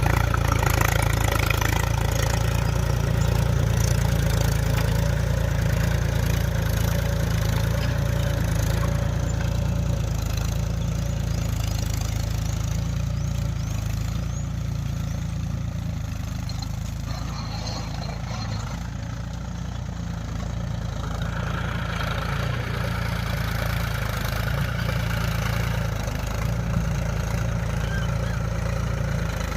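Mahindra tractor's diesel engine running steadily at a low, even pitch; its sound softens for several seconds midway, then picks up again.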